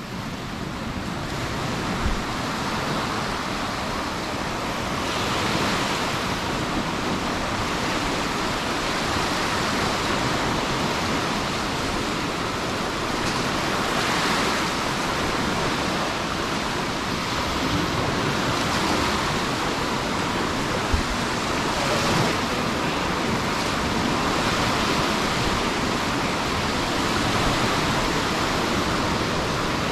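Sea waves breaking and washing up on the beach: a continuous rushing that swells every few seconds.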